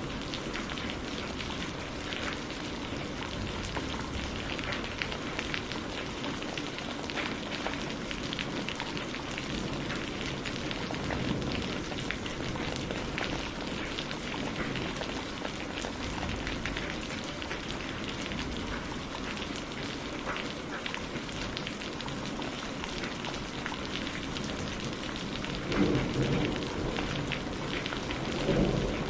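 Steady rain falling on a surface, with many individual drops ticking through the hiss. Near the end come two brief, louder low rumbles.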